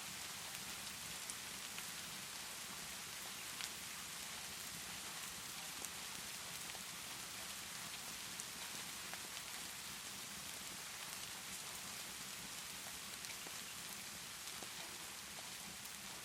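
Steady rainfall as an even hiss, with faint scattered pops and crackles from a fireplace.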